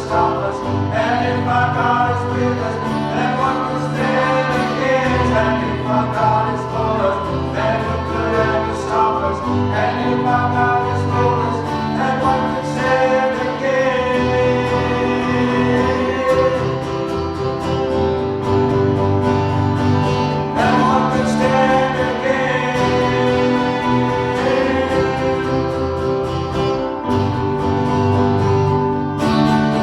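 Worship song in a gospel style: voices singing a sustained melody over instrumental accompaniment with a steady bass.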